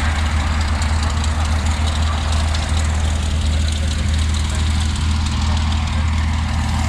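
A heavy engine running steadily at an even low pitch, with no change in speed.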